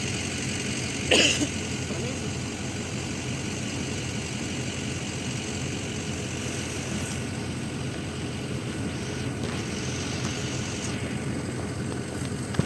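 Off-road vehicle engine idling steadily, with one short sharp noise about a second in.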